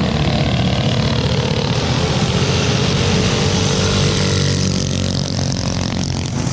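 Mini bike engines running, a loud, continuous engine drone whose pitch wavers a little partway through.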